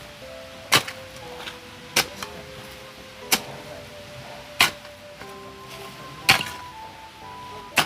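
Digging a small hole in garden soil: a digging tool strikes the ground six times at a steady pace, about one blow every second and a half. Background music with held notes plays under the blows.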